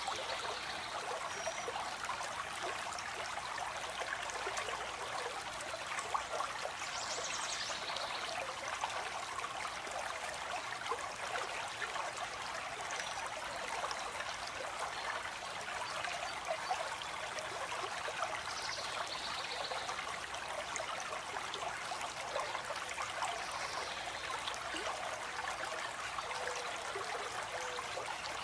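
A stream of water flowing and trickling steadily, with a few brief, faint bird calls at times.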